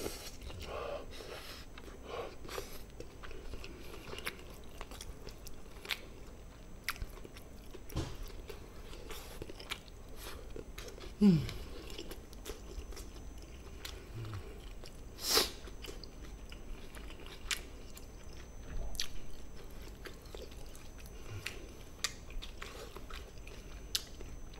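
Close-miked chewing and biting of gochujang-marinated native chicken, eaten skin-on, with wet mouth clicks scattered throughout. A short falling tone comes about eleven seconds in and a sharper click a few seconds later.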